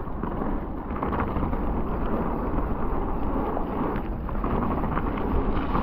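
Wind buffeting the camera microphone over the rumble and rattle of an enduro mountain bike rolling down a wet trail.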